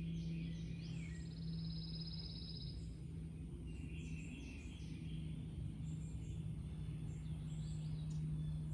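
Birds chirping and twittering in short, scattered calls over a steady low hum and faint background rumble.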